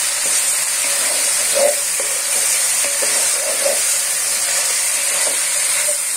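Sliced onions and spice paste sizzling in hot oil in a nonstick wok, with a wooden spatula stirring and scraping the pan in short strokes. The masala is being fried down (koshano) before the beef goes in.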